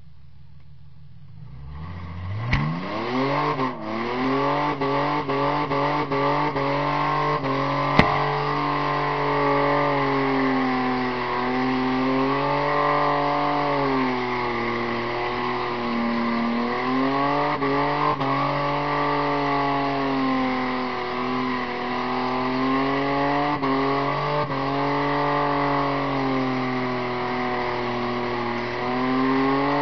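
Holden VL Commodore engine heard from inside the cabin during a burnout. It climbs steeply to high revs about two seconds in and is held there, the revs dipping and swelling every few seconds as the rear tyres spin. There is a short sharp crack about eight seconds in.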